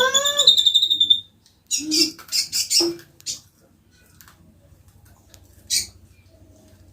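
Konin (kolibri ninja) calling: a quick run of rising, whistled notes over a high held note, then a few harsh scratchy notes, and one short sharp note near the end.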